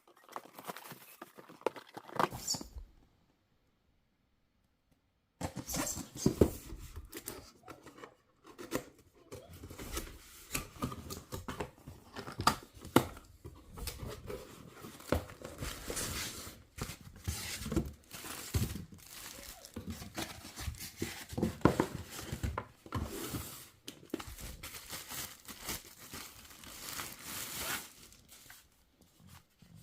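Packaging being opened and handled by hand: irregular rustling, crinkling and tearing with small clicks and taps, stopping dead for a couple of seconds near the start.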